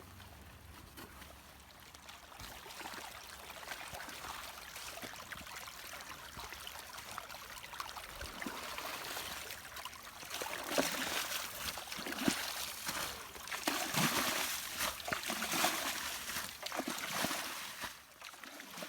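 Running rainwater trickling and gurgling, louder from about ten seconds in, with small splashes.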